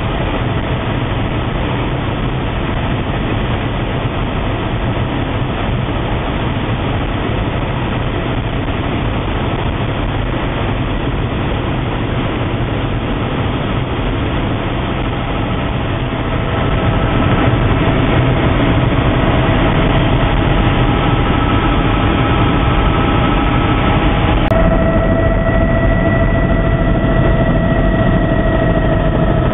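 Helicopter engine and rotor drone, steady and loud, growing louder about two-thirds of the way through, with steady whining tones over it toward the end.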